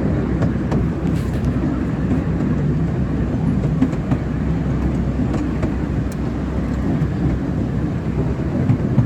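A park ride train running along its track, heard from aboard: a steady low rumble with scattered light clicks.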